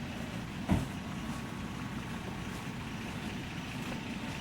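Tow truck engine running steadily, with a single sharp thump about a second in.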